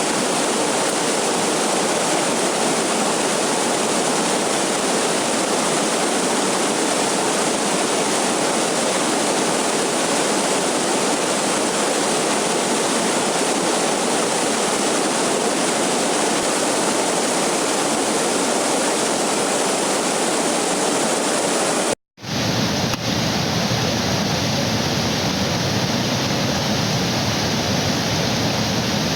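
Steady, loud rush of a waterfall. About three quarters of the way through it breaks off for an instant and comes back deeper, with more low rumble and less hiss.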